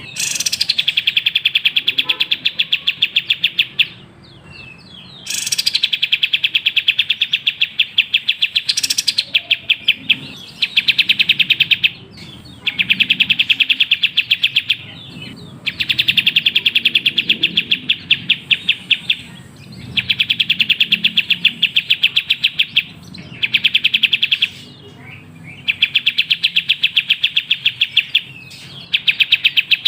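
Kapas tembak (olive-winged bulbul) singing a rapid, evenly spaced chattering trill in bouts of a few seconds with short pauses between, with a few brief calls in the gaps. This is a lure recording used to draw song from birds that sing little.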